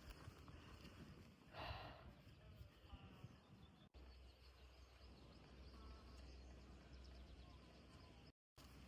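Near silence: faint outdoor ambience with a brief rustle about two seconds in and a few faint short chirps.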